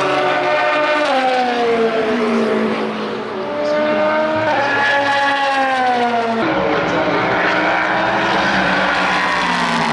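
Race car engines running at high revs. The pitch keeps sliding down, then jumps back up about a second in and again around four and a half seconds.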